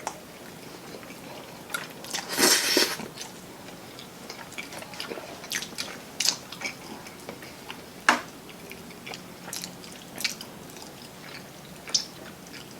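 Close-up biting and chewing of crispy Chinese-style fried chicken, with scattered crunches and mouth clicks. The loudest crunch comes about two and a half seconds in, and another sharp one just after eight seconds.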